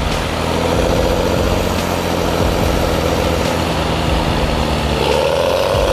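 Engine of a heavy machine running steadily under load, its note lifting a little about five seconds in.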